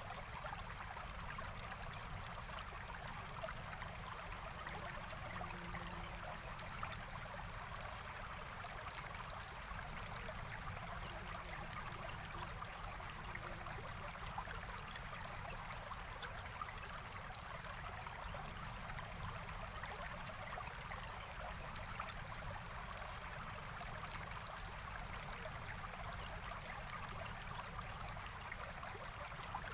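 Forest stream flowing steadily, an even rush and trickle of water, with a few faint ticks here and there.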